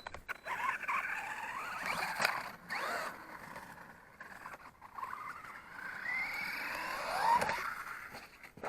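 Electric motor of a Reely New1 RC monster truck whining as the throttle is worked, its pitch gliding up and down in two spells.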